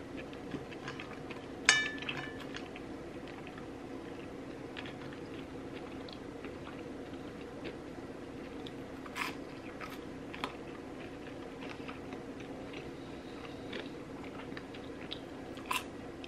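Close-up chewing and biting of KFC chicken and sides, with small wet clicks of the mouth and a few sharper crunches, over a steady low hum. A sharp clink with a short ring about two seconds in.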